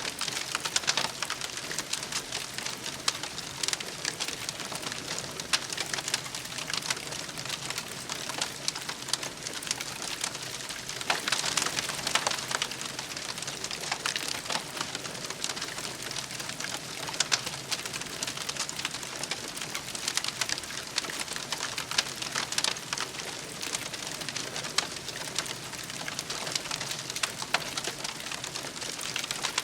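Wood campfire crackling: a steady hiss thick with small pops and snaps, busier for a moment about twelve seconds in.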